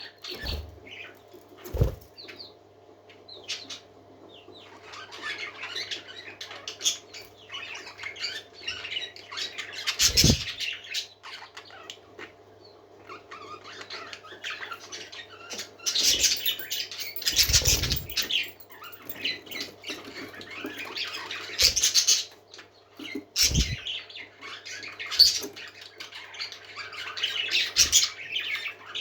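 Pet parakeets chattering and warbling continuously, with a few brief flurries of wing-flapping, the longest about 17 seconds in. A faint steady hum runs underneath.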